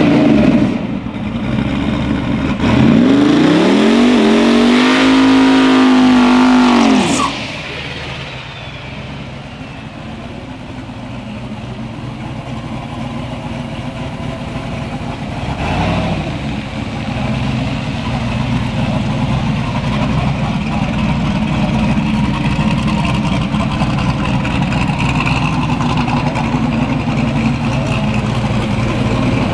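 Drag car launching hard, its engine revving up in a rising pitch for about four seconds before the sound drops off suddenly, then a steady engine running near idle.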